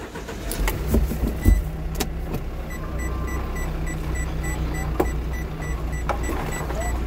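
A vehicle engine running steadily with a low hum, with a few sharp knocks or clunks over it.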